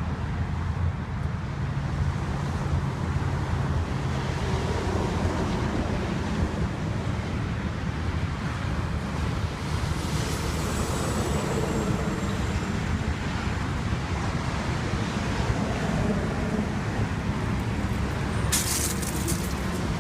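Steady low rumble of a running vehicle engine mixed with road traffic noise, with a few sharp knocks near the end.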